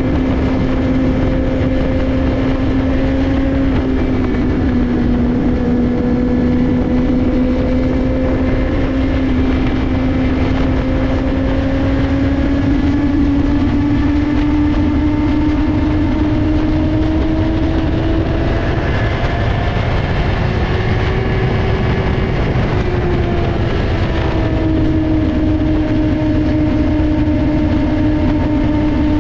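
Motorcycle engine running at a steady cruise under way, its note slowly climbing for most of the stretch, shifting about two-thirds through, then holding steady, with a constant rushing of wind noise beneath it.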